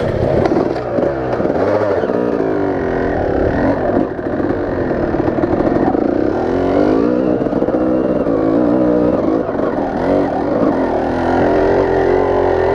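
Dirt bike engine running while being ridden, its pitch rising and falling again and again with the throttle; the bike is running solid.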